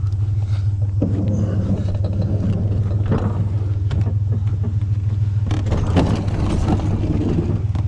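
Vehicle engine idling steadily with a low hum, while metal scrap is knocked and shifted around in the truck: a clatter about a second in, another near the middle, and a busier stretch of knocks later on.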